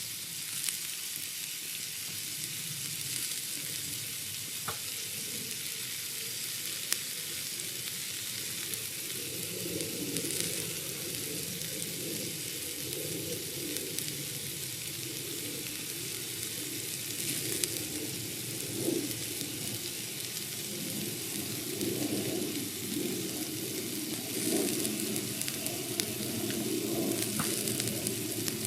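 Steak frying on a thick iron griddle plate over an open wood fire: a steady sizzle with scattered sharp pops. A lower, uneven sound joins in from about nine seconds in and grows louder toward the end.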